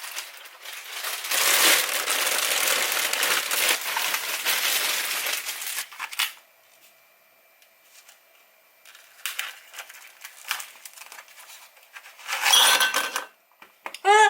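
Crinkly packaging being handled: a long stretch of loud crinkling and rustling, then scattered small rustles and clicks, another short burst of crinkling, and a brief pitched squeak at the very end.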